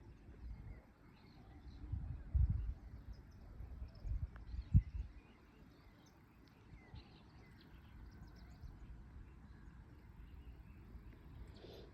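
Outdoor ambience with faint, scattered bird chirps. Low rumbling gusts, like wind on the microphone, come in the first half, with one sharp thump about five seconds in.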